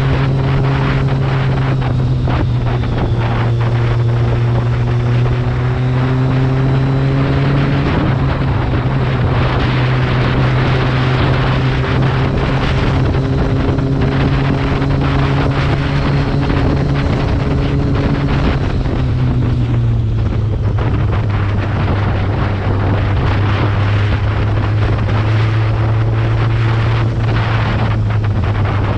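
BMW K1300R's inline four-cylinder engine running at steady revs while riding, with wind noise over it. The engine note drops about two-thirds of the way through as the revs come down.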